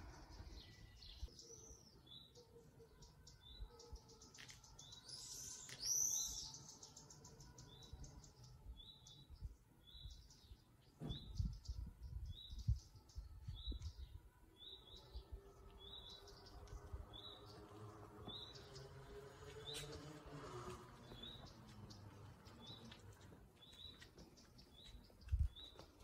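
Small bird repeating one short, high chirp about once a second, with a brief burst of louder twittering a few seconds in. Faint against quiet street ambience.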